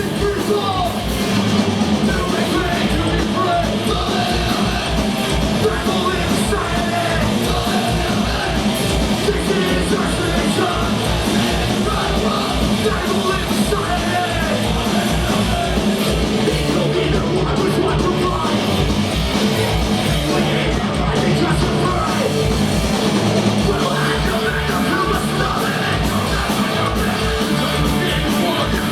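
A punk rock band playing live and loud, with a fast, steady drumbeat and shouted vocals.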